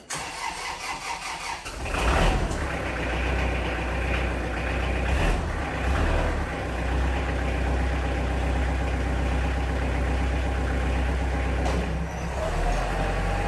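A motor vehicle engine starting, catching about two seconds in, then running steadily.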